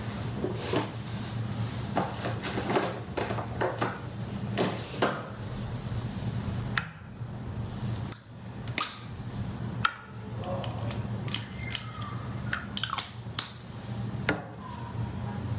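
Small objects being handled close up: a run of light clicks, taps and brief clinks, over a steady low hum.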